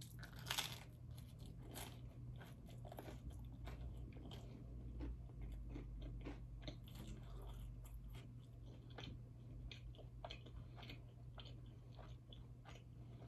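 Close-miked biting and chewing of a crusty garlic bread stick: one loud crunchy bite about half a second in, then many small crunches and mouth clicks as it is chewed, over a low steady hum.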